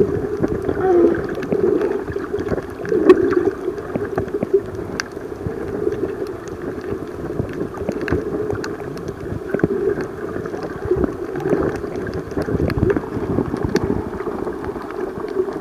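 Muffled water sloshing and bubbling around a camera held underwater in the sea, with scattered sharp clicks throughout.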